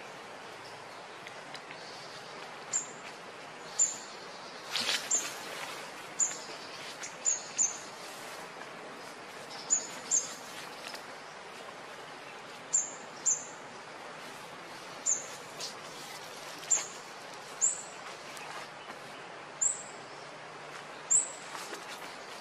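A bird's short, high chirps, repeated every second or two and often in quick pairs, over a steady outdoor hiss. A brief rustle about five seconds in.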